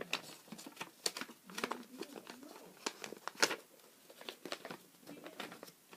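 A sheet of paper being handled and refolded, with irregular short crinkles and crackles of the paper as it is creased and smoothed.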